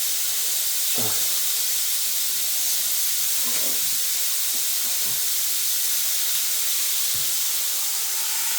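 Breaded chicken strips frying in a pan: a steady sizzling hiss.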